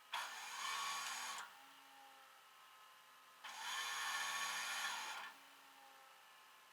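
Small electric motor whirring in two bursts, the first about a second and a half long and the second a little longer starting about halfway through, each starting and stopping abruptly.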